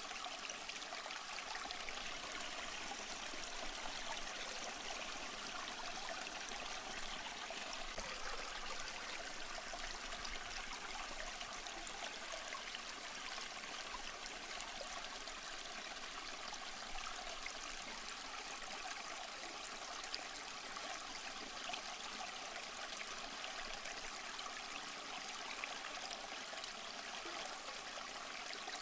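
Small stream flowing and trickling over rocks: a steady, even water babble with fine splashing detail and no pauses.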